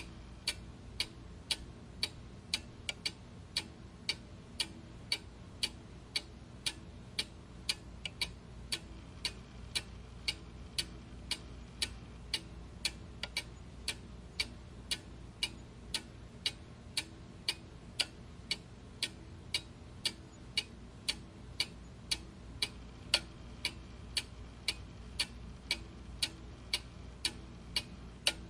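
Mechanical clock ticking steadily, about two ticks a second, sharp clicks over a faint low hum.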